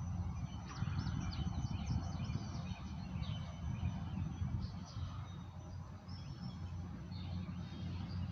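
Freight train of covered grain hopper cars rolling slowly past with a steady low rumble. Birds chirp over it from about a second in to three seconds, and briefly again later.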